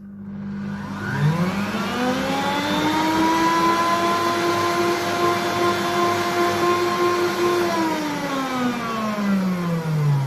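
Electric stand mixer beating a batter of whipped eggs, sugar and melted butter. The motor speeds up with a rising whine about a second in, runs at a steady pitch, then winds down with a falling pitch near the end.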